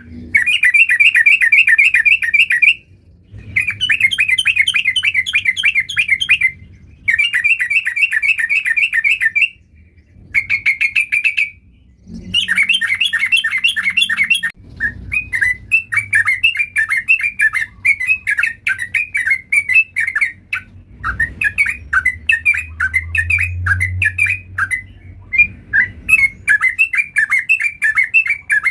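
Yellow-vented bulbul (trucuk) singing vigorously. It gives rapid chattering phrases of a few seconds each, broken by short pauses, then a long run of quick separate notes in the second half.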